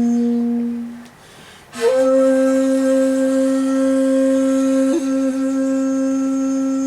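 Shakuhachi playing a slow solo komuso-style piece: a long held low note fades out about a second in, then after a short breath a breathy attack opens a slightly higher note that is held steady, with a brief flick of ornament about five seconds in.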